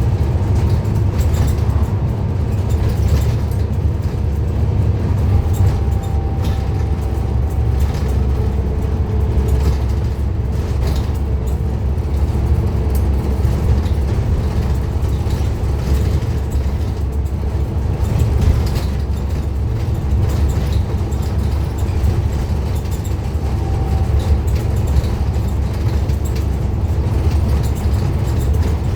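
Scania N230UD Omnicity double-decker bus's five-cylinder diesel engine running steadily under way, a continuous deep drone with faint whining tones that come and go.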